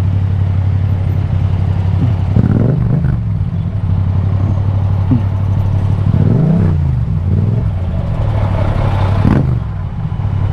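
Yamaha MT-07's parallel-twin engine running through an Akrapovic exhaust at low speed in traffic, its revs swinging up and down a couple of times.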